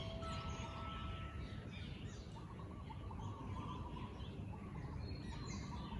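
Several birds chirping and warbling over a steady low rumble, with the last tone of a wind chime dying away in the first second or two.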